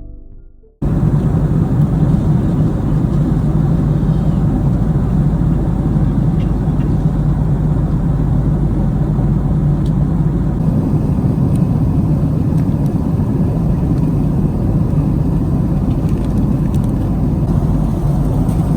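Steady, loud rumble and rush of a Boeing 767-300 airliner cabin, starting abruptly about a second in and holding an even level, with a few faint ticks.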